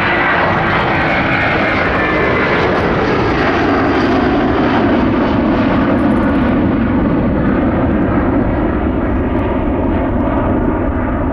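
Airbus A330-200 jet airliner passing close by: a jet engine whine that falls in pitch over the first few seconds, then a loud, steady rumble.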